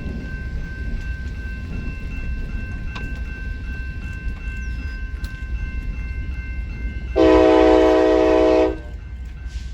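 A train rumbling along steadily, and about seven seconds in a locomotive horn sounds one short blast of about a second and a half.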